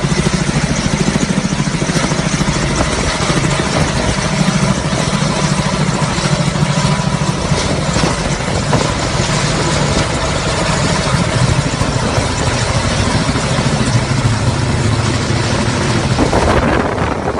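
Kamov Ka-32 coaxial-rotor helicopter running loud and steady, with a fast, even beat under a broad rushing noise. The higher part of the sound falls away near the end.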